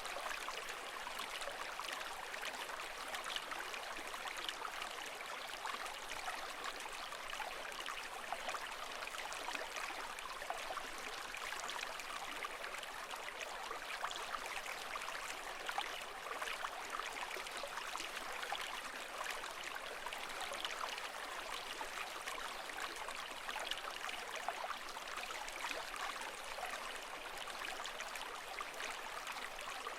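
Steady bed of running, bubbling water: an even rush dense with small trickles and gurgles, holding one level throughout with no rise and fall of breaking waves.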